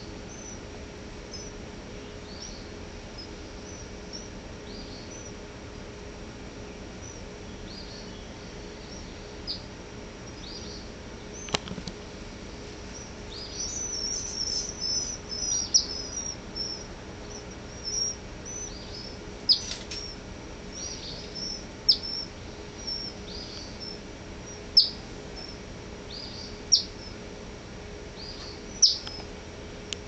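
Small birds at a nest chirping in thin, high-pitched notes: faint at first, a busy flurry of chirps about halfway through, then single sharp chirps every second or two. A sharp click sounds just before the flurry.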